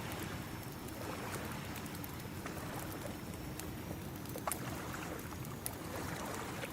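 Ocean waves washing steadily, mixed with a crackling wood fire that gives a few sharp pops.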